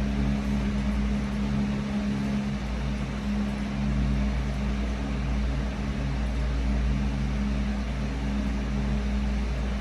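Steady mechanical hum over a low rumble, wavering slightly in strength.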